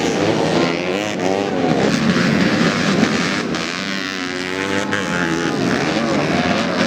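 Motocross bike engines running and revving, their pitch rising and falling, with a couple of sharp clicks in the middle.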